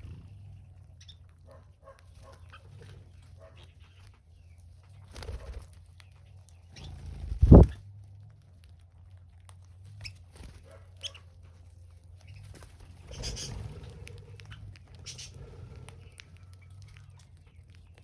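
Birds calling in short scattered chirps over a steady low hum. A loud low thump comes a little before halfway, and a softer rushing noise about three quarters through.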